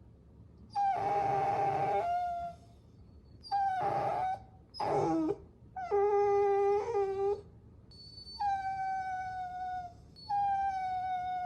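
Puppy whining: a run of about six high-pitched whines and whimpers with short pauses between them. Some are held steady or sag slowly in pitch, one slides sharply down, and one steps between a higher and a lower note.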